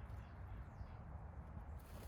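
Quiet outdoor backyard ambience: a steady low rumble with a faint high bird call, and a short run of sharp clicks or rustles near the end.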